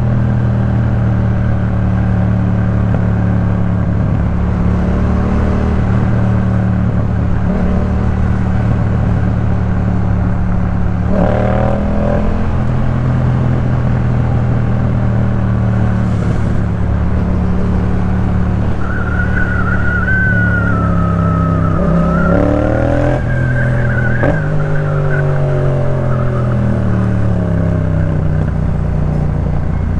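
Yamaha MT-07's parallel-twin engine running through a Jeskap K4 full aftermarket exhaust on the move, mostly at a steady throttle. The revs change about a third of the way in and again past two thirds, climbing and falling as the rider works the throttle and gears.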